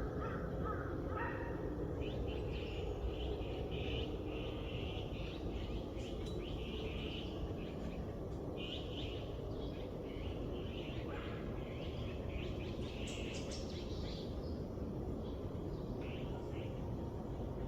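Small birds chirping and singing in quick, repeated short notes, over a steady low background hiss of outdoor ambience.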